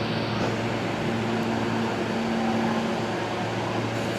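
R160A subway car standing at the platform, its air-conditioning and onboard electrical equipment humming steadily.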